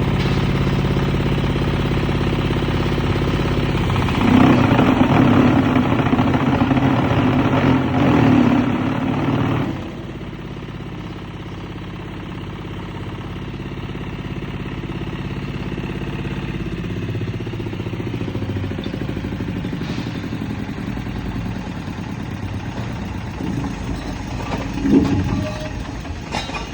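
Diesel engine of a hydraulic cement block moulding machine running steadily, with a louder, rougher stretch from about four to ten seconds in, then settling to a lower, even running sound with a few knocks near the end.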